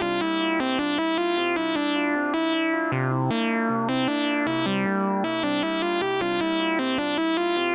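Sequential Fourm four-voice analogue polysynth playing a fast run of plucky notes, each starting bright and quickly turning mellow as the filter closes, over lower held bass notes.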